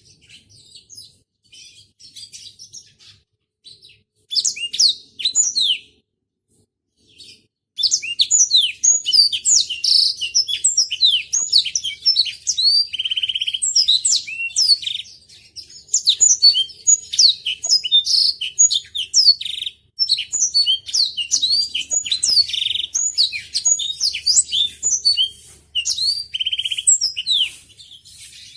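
Black-throated canary (blackthroat) singing a fast twittering song of high chirps and sweeping notes, broken by short buzzy trills. It starts with scattered soft notes and a brief burst about four seconds in, then sings almost without a break from about eight seconds on.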